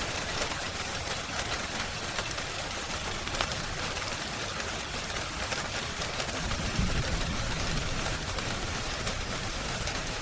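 Steady rain hiss mixed with the small pops and crackles of a wood fire. A brief low rumble comes about two-thirds of the way through.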